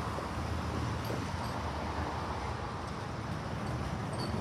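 Steady low background rumble with an even hiss, with a few faint high chirps.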